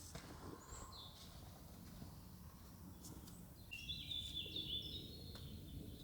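A bird chirping: a quick run of high notes about four seconds in, the loudest sound, after a faint chirp near the start. Under it, steady low background noise and a few faint clicks.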